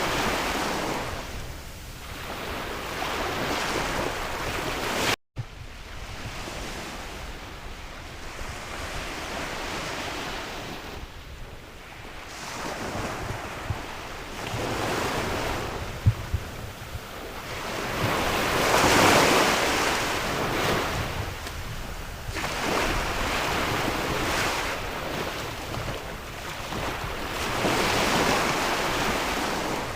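Sea waves breaking and washing up the shore, the surf swelling and ebbing every few seconds, with wind buffeting the microphone. The sound drops out briefly about five seconds in.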